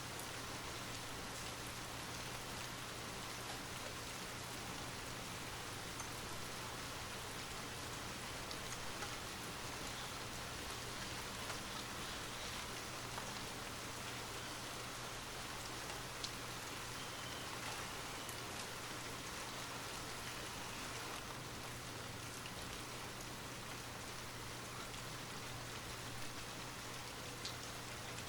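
Light rain falling steadily, a soft even hiss with scattered individual drops ticking, over a faint constant low hum.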